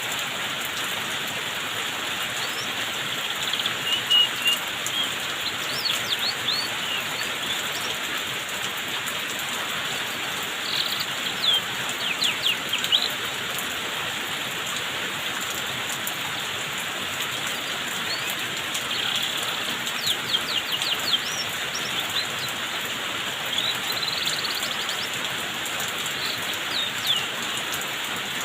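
A steady hiss of water falling like rain on a canary, the 'rain therapy' given after its moult, with the canary's short high chirps breaking in every few seconds in brief clusters.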